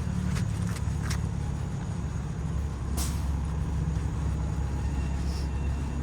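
Street traffic rumbling steadily, with a few short hissing sounds; the sharpest comes about three seconds in.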